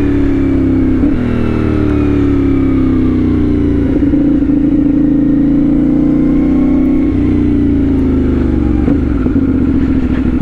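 CFMOTO 450SS parallel-twin motorcycle engine, fitted with an aftermarket slip-on exhaust, running steadily under way. Its pitch glides gently and changes abruptly several times.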